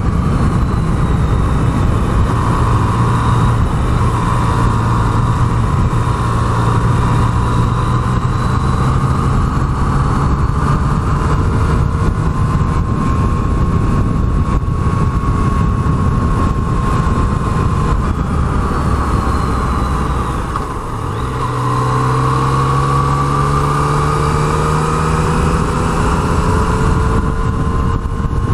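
Yamaha MT-09 motorcycle's three-cylinder engine running at a steady cruise on the road, under a constant rush of wind noise. About 20 seconds in the engine note eases off briefly, then rises as the bike accelerates again.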